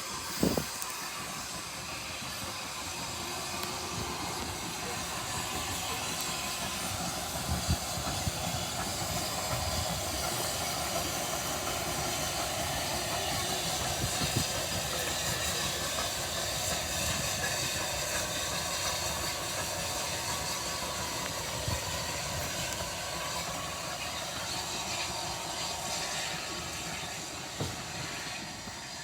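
Steam locomotive hissing steam as it runs along the line, a steady hiss with a few short thumps.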